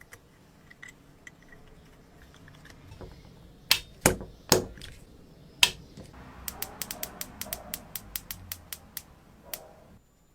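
A few loud, sharp clicks or taps in the middle, then a quick run of lighter clicks, about seven a second, for some three seconds.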